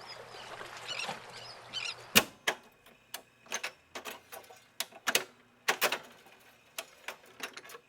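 Background hiss for about two seconds, then a run of sharp, irregular clicks and taps.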